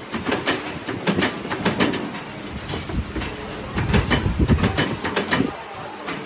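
Metal being worked in a factory during grill-rack welding: irregular sharp metallic knocks and clanks, several a second and loudest about four to five and a half seconds in, over a low steady machine rumble.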